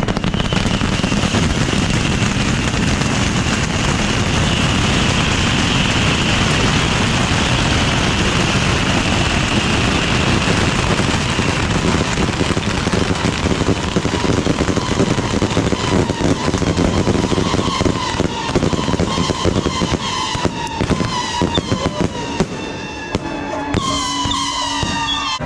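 A dense, continuous barrage of bottle rockets fired from a beehive rocket rack, hissing and cracking without pause, with a steady high whistle through the first half. Near the end the barrage thins and whistling glides come through.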